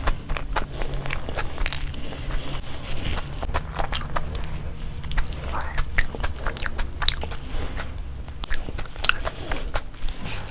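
Close-miked chewing of soft, gravy-soaked food: wet smacking mouth clicks in quick, irregular succession, over a steady low hum.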